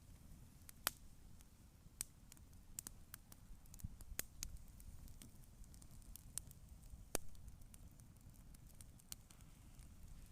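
Wood campfire crackling: irregular sharp pops and snaps over a low steady rumble, with louder pops about a second in and about seven seconds in.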